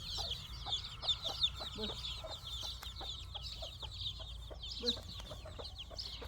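Many birds chirping together in a dense, unbroken chorus, with short lower clucks mixed in.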